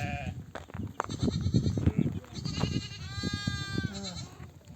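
A flock of sheep bleating, with several calls overlapping and one long, clear bleat about three seconds in, as ewes call for their lambs at feeding time. Underneath runs a dense, irregular shuffling and knocking of the animals milling about.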